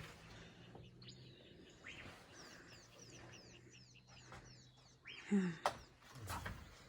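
A bird sings a quick run of about a dozen short, high chirps, each falling in pitch, over a faint steady hum. About five seconds in, a short, louder voice-like sound with a falling pitch stands out.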